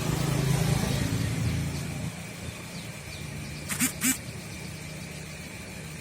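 Daihatsu Taruna engine idling steadily during a morning warm-up, a little louder in the first two seconds. About four seconds in, two short pitched calls come close together, louder than the engine.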